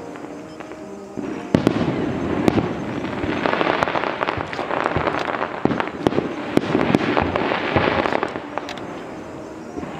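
Fireworks display: a dense barrage of bangs and crackling. It comes in about a second and a half in and thins out near the end.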